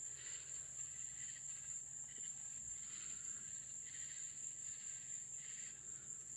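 Night insect chorus: a steady high-pitched cricket trill, with a softer pulsing call repeating about once a second.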